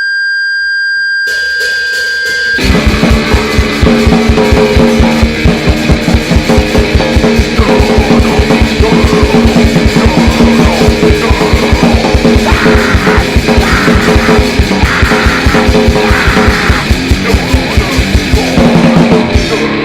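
Live grindnoise band playing loud: a steady high tone holds for the first couple of seconds, then distorted guitar and very fast drumming come in together and run on.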